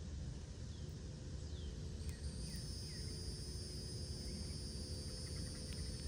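Backyard ambience: a steady low rumble, a few short falling bird chirps in the first three seconds, and a steady high-pitched insect drone that starts about two seconds in.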